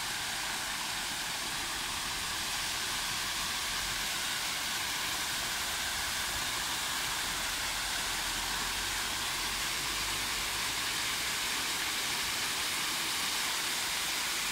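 Steady rushing of a large pond waterfall pouring down rocks into a pool, an even hiss of falling water.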